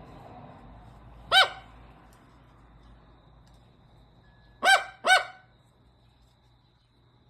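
A bird calling three loud, harsh calls: one, then a quick pair about three seconds later, each call rising and falling in pitch.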